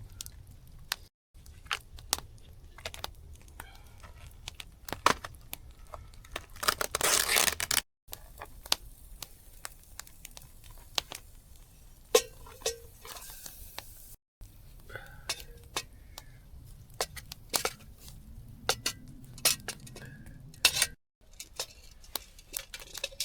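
Cooking-prep handling sounds: packaging crinkling, with a longer tearing sound about seven seconds in, among scattered clicks and knocks of utensils against a cooking pot.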